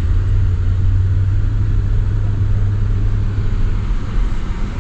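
Car being driven at a steady pace: a steady low engine and road rumble with no sudden events.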